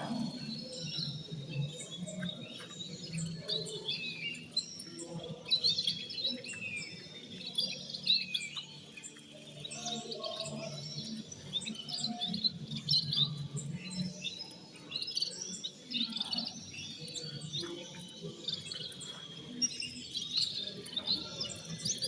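Many cage birds chirping and twittering together in a dense, continuous chorus of short calls and trills, over a steady low hum.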